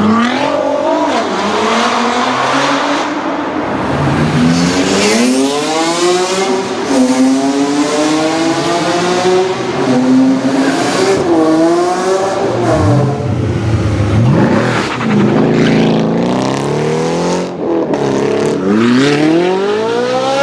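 Sports car engine revving hard, its pitch climbing steeply and falling back again several times over.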